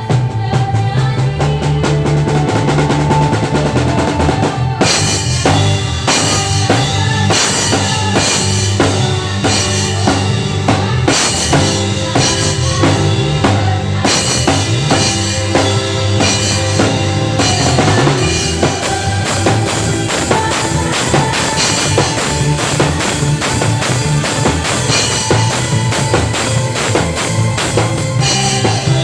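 Live band playing an instrumental passage led by a full drum kit, with bass drum, snare and rimshots over steady bass and keyboard or guitar chords. The cymbals come in about five seconds in and keep going.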